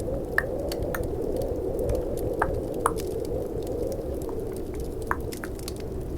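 Tongue clicks: a handful of sharp single clicks at irregular intervals, over a steady low snowstorm and fireplace ambience with faint crackles.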